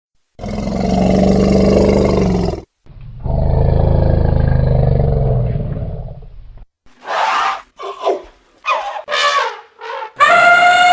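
A tiger roaring twice, each roar long and deep. These are followed by a string of short, higher calls, and near the end a long, high, gradually falling howl begins.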